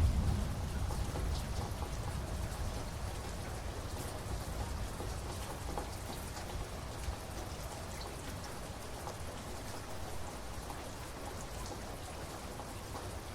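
Steady rain falling, with scattered drops ticking through it. A low thunder rumble dies away in the first second.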